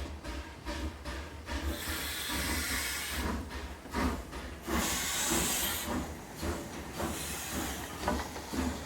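Steam locomotive sound: slow chuffs about one and a half a second, broken twice by long hisses of escaping steam, over a steady low hum.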